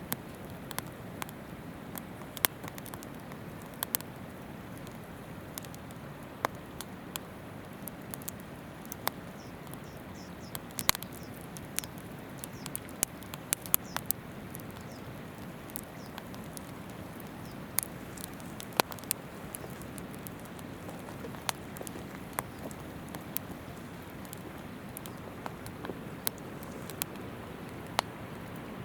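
Wood campfire crackling, with frequent irregular sharp pops and snaps, over the steady murmur of a shallow river.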